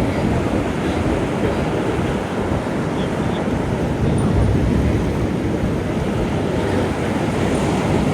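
Wind buffeting the microphone: a loud, steady rumbling rush that is heaviest in the low end.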